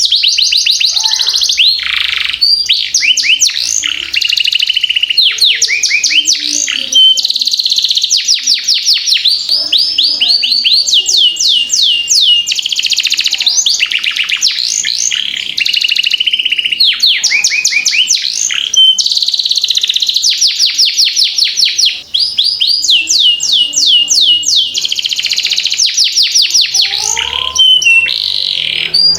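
Domestic canary singing a long, continuous rolling song: fast trills of repeated sweeping notes, switching from one trill to the next every second or two without a break.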